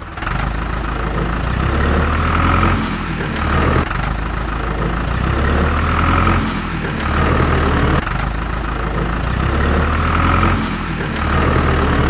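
Large vehicle engine running with a low rumble that swells and eases every couple of seconds: a dubbed engine sound effect, since the toy tractor is pulled along by a string.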